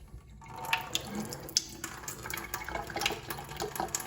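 Hot water running at low pressure out of a hose tapped off a sink supply line, with irregular spattering and dripping. It picks up after a brief lull at the very start.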